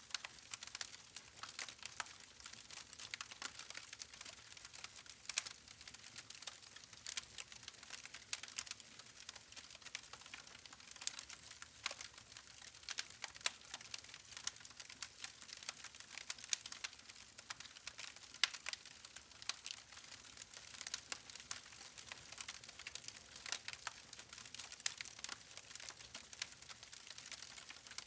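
Wood fire crackling steadily, with many small sharp pops and snaps from the burning logs over a faint hiss of flame.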